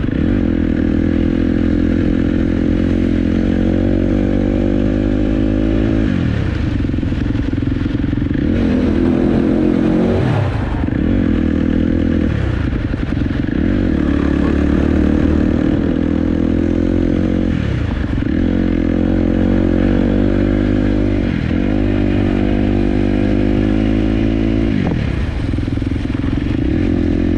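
Dirt bike engine running under way, its note falling sharply and climbing back about five times as the rider works the throttle and gears, with rattling from the ride over rough ground.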